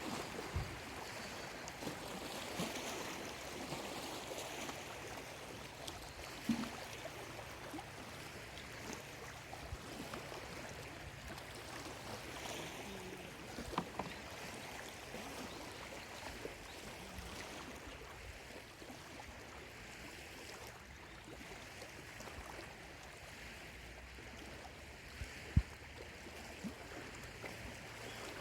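Small lake waves lapping and washing at the shore in a steady gentle wash, with a few brief sharp splashes or knocks, the strongest near the end.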